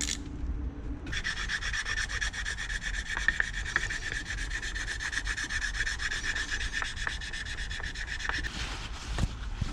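Hand ratchet wrench clicking in a rapid, steady run as engine case cover bolts are tightened by hand. The clicking starts about a second in and stops shortly before the end.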